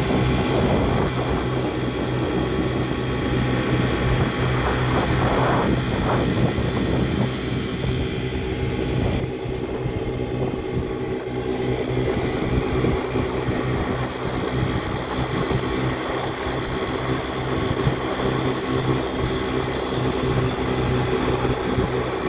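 Motorboat engine running steadily under way, with the rush of wind and water.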